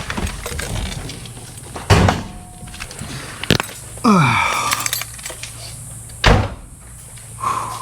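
A few sharp thunks and some clatter, like a car door and things being handled, over a steady low hum. A short falling whine sounds about four seconds in.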